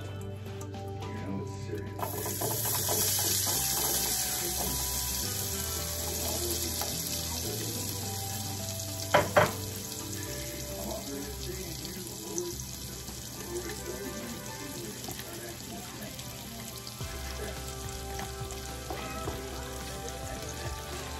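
Diced vegetables sizzling in hot oil in a large nonstick pot, the sizzle starting suddenly about two seconds in and slowly settling. Two sharp knocks come near the middle.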